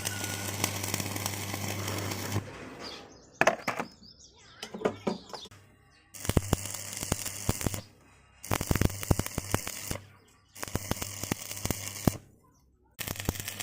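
Electric arc welding crackling and buzzing in bursts of one to two seconds, stopping and restarting about five times. A few short knocks fill a gap about four seconds in.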